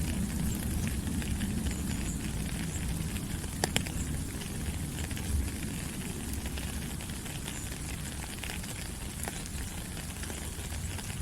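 Steady rain falling on rainforest leaves: a dense, even patter of drops over a low rumble, with a couple of sharper drip clicks a few seconds in.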